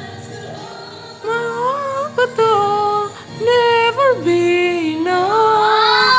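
A female voice singing a wordless, drawn-out melodic line, starting about a second in. The held notes slide and waver in pitch, with a long upward slide to a high note near the end.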